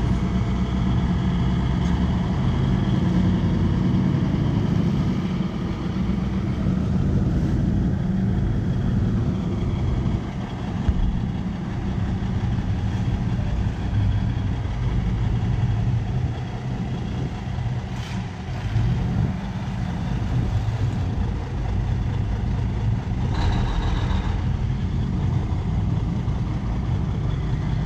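Car engines running as show cars drive out past one another, a steady low engine sound with a brief higher rush of noise about three-quarters of the way through.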